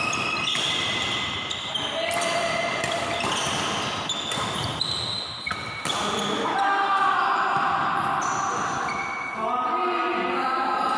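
Badminton rally on an indoor court: many short, high-pitched squeaks of shoes on the court floor and sharp shuttlecock strikes, echoing in a large hall, with voices calling out.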